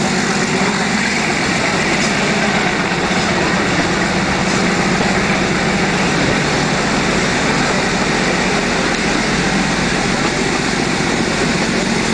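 Ooty toy train running along the track, heard from inside a carriage: a loud, steady, unbroken noise of the moving train.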